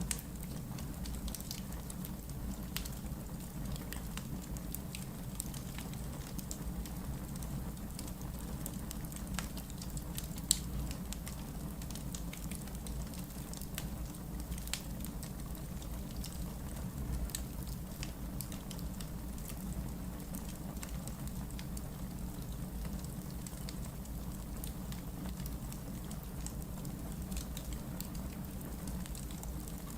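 Wood logs burning in a fireplace: a steady low rumble of the flames with frequent small crackles and pops. One sharper pop comes about ten seconds in.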